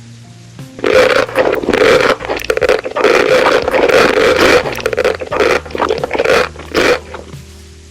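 Close-miked eating sounds: the mouth working on food in a dense run of wet, noisy bursts for about six seconds, starting about a second in and fading out near the end.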